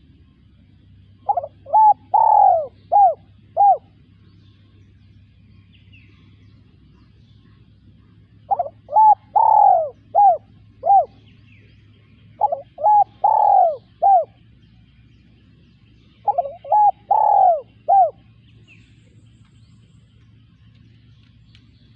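Spotted dove cooing: four phrases of about five coos each, a few seconds apart, each coo a short note that rises and falls in pitch.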